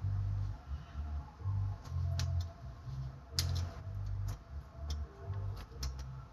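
Scattered sharp metal clicks and ticks from a cotter pin being worked into the castle nut and retainer cap on a truck's front spindle. The loudest click comes about three and a half seconds in. A low hum pulses on and off underneath.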